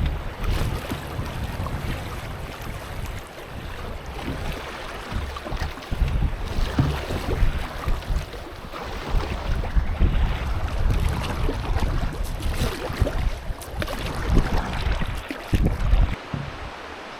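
Wind buffeting the microphone in uneven gusts over a steady rush of river water from a moving canoe.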